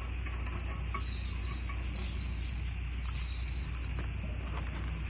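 Crickets singing a steady, continuous high trill in an autumn forest, with a few faint ticks.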